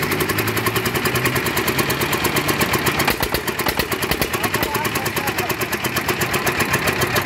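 Petter-type stationary diesel engine running steadily, with an even, rapid beat of about six or seven pulses a second.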